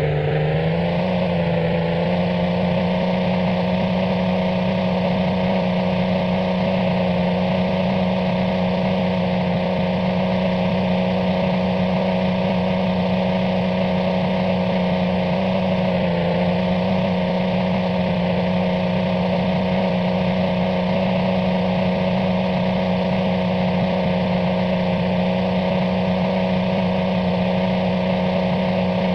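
A steady engine or motor hum at an almost constant pitch, dipping and settling slightly near the start and again about halfway through.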